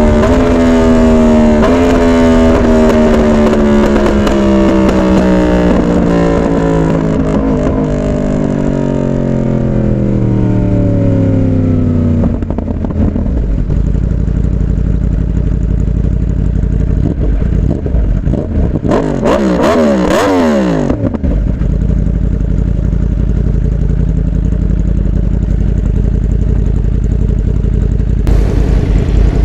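Yamaha R1's crossplane inline-four engine, its pitch falling steadily for about twelve seconds as the bike slows, followed by a steady low rumble. Around twenty seconds in, a vehicle goes by, its pitch rising and then dropping quickly.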